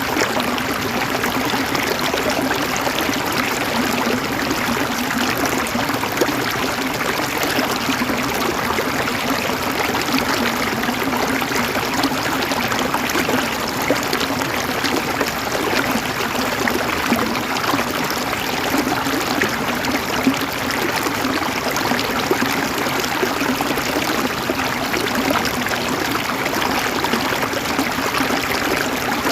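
River water flowing over rocks in a steady babbling rush, full of fine splashes.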